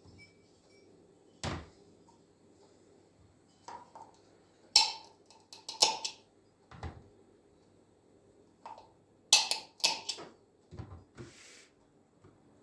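A series of separate household knocks and clicks, like things being handled, set down or shut, about a dozen in all. A few of them are sharp and bright. A faint steady hum runs underneath.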